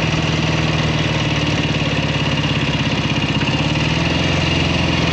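1967 Kawasaki W1 650's parallel-twin engine running steadily, with one of its two carburetors not yet working properly.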